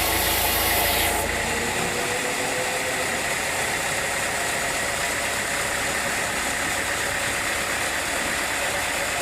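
Sawmill machinery running steadily with an engine-like hum. About a second in, a louder, hissier layer with a deep rumble under it stops, leaving the machine running on.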